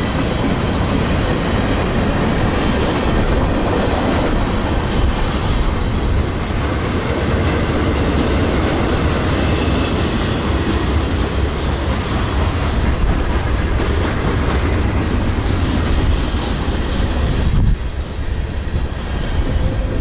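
Freight train of tank cars and boxcars rolling past at close range in a steady loud rush of wheel and car noise. About three-quarters of the way through, the last car passes and the noise drops off sharply, leaving a low rumble.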